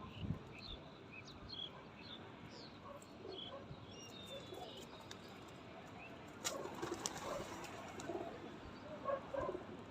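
Feeding birds: small birds give scattered short chirps throughout, with soft pigeon cooing and a brief flurry of rustling about six and a half seconds in.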